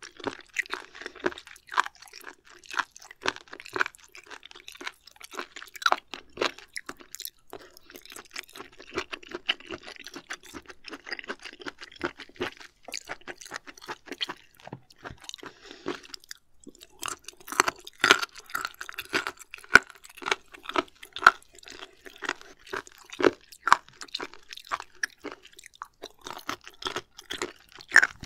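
Close-miked chewing of raw shellfish sashimi: a quick run of wet, crunchy bites and mouth sounds, easing off in a brief lull a little past halfway before picking up again.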